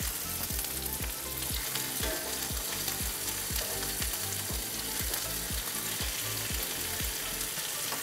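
Barbecue-sauced chicken thighs sizzling steadily in hot olive oil in a cast iron skillet while they are turned over with metal tongs.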